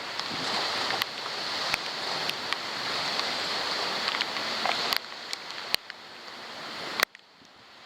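Thunderstorm rain and wind hissing, with scattered sharp ticks of drops striking the waterproof camera. The hiss swells, eases about five seconds in and drops off suddenly about seven seconds in.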